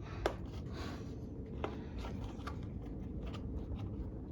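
Hands fitting the air filter breather onto a lawnmower's carburettor and air filter housing: a few sharp plastic clicks and small handling noises over a low steady hum.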